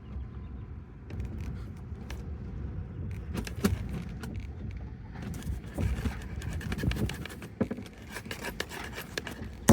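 Strong wind buffeting a house, a steady low rumble with irregular rattles and knocks scattered through it.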